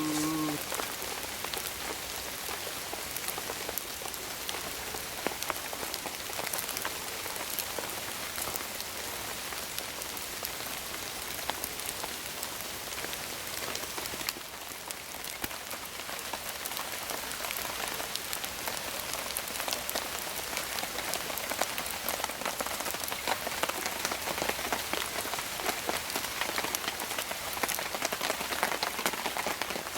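Steady light rain falling, with many individual drops heard as sharp ticks. It grows a little louder in the last third.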